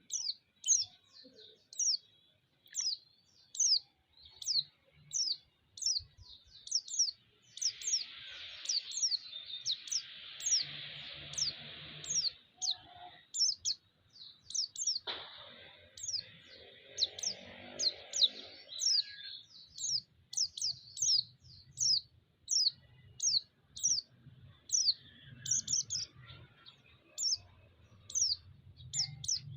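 Pleci (white-eye) chirping: a steady run of short, high, downward-sweeping chirps, about three every two seconds, used as a lure call to excite other pleci. A hiss rises twice in the middle, with a sharp click between them.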